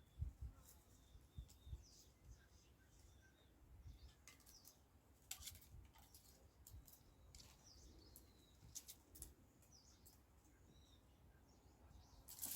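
Faint birds chirping now and then, with scattered light clicks and rustles.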